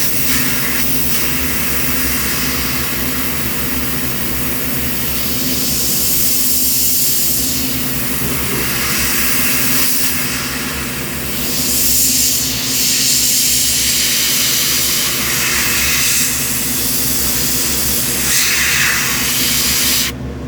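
Airbrush spraying thinned paint in a continuous hiss of air that swells and eases as the modeller outlines a colour boundary, starting and stopping abruptly, over a steady low hum.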